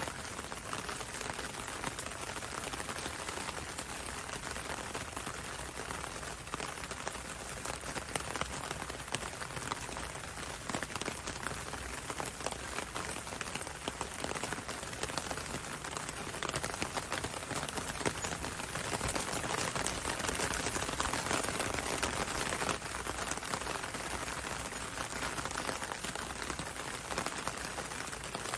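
Steady rain pattering on a window and on a road, a dense even hiss full of small drop ticks, swelling slightly about two-thirds of the way through.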